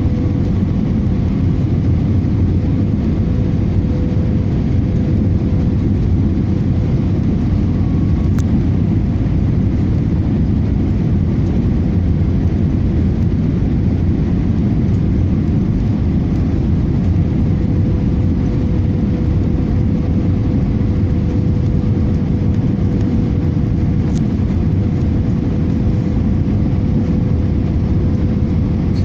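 Airbus A318 jet airliner noise heard from inside the cabin in flight: a steady low rumble with a constant hum over it.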